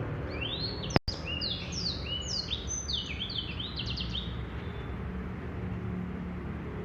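Male blackthroat (black-throated canary) singing a rapid phrase of quick rising whistles run into trills, stopping about four seconds in, over a steady low rumble. A sharp click with a momentary dropout about a second in.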